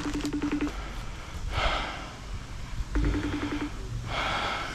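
A FaceTime video call ringing out through a phone's speaker: two short steady ring tones about three seconds apart, with two breathy puffs of noise between them.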